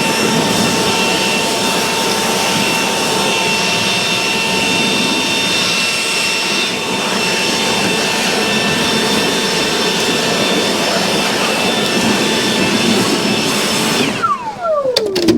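Leaf blower running steadily with a high whine. About fourteen seconds in it is switched off, and the whine drops away as it spins down.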